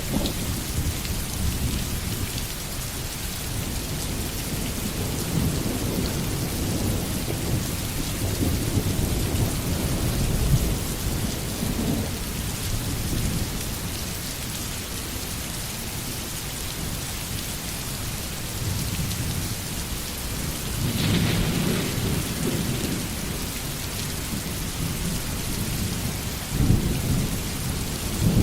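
Steady rain hissing, with low rolls of thunder that swell and fade several times. A sharper thunderclap comes about two-thirds of the way through, and a loud rumble builds near the end.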